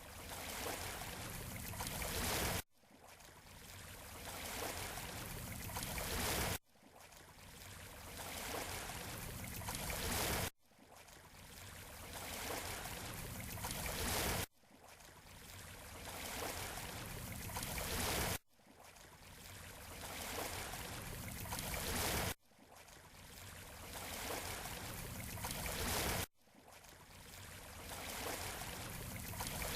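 Surf washing on a beach shore: each surge of rushing water builds over about four seconds, then stops abruptly, repeating at even intervals like a short recording played in a loop.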